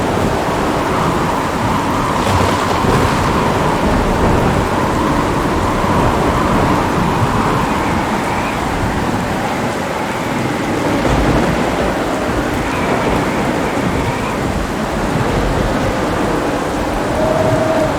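Steady heavy rain with low, rolling thunder rumbling underneath; there is no single sharp crack.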